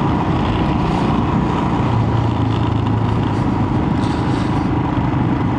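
Royal Enfield Himalayan motorcycle engine running at a steady cruise, with wind and road noise, heard through a microphone inside the rider's helmet. It is a steady hum with no changes in pitch.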